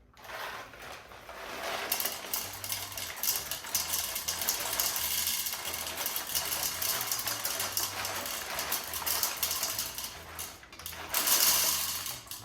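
Whole coffee beans rattling as they are poured into the bean hopper of a Breville Barista Express, a dense patter of small hard clicks with a louder surge near the end. The grinder had run out of beans and is being refilled.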